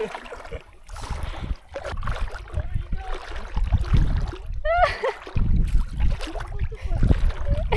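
Water splashing and sloshing around a puppy swimming, with low rumbling on the microphone and a short voiced call about five seconds in.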